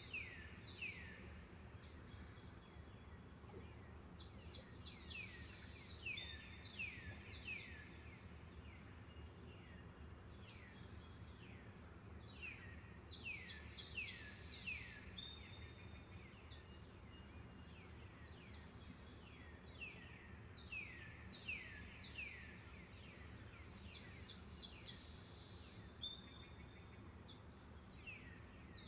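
Forest birds singing, in repeated series of quick notes that sweep down in pitch. Under them runs a continuous high-pitched insect trill, with a faint low rush of a flowing river.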